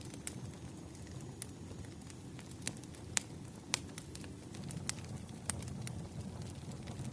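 Campfire crackling: irregular sharp snaps and pops, a few a second, over a steady low rumble of burning wood.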